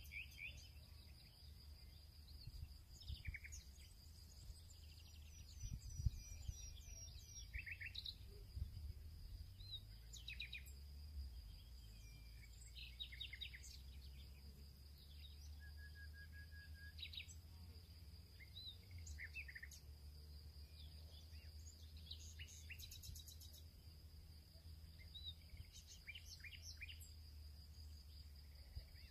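Faint background birdsong: several birds chirping and trilling in short scattered calls, over a steady high whine and a low hum. One soft knock about six seconds in.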